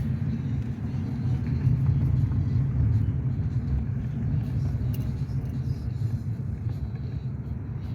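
Steady low rumble of a car on the move, engine and road noise heard from inside the vehicle.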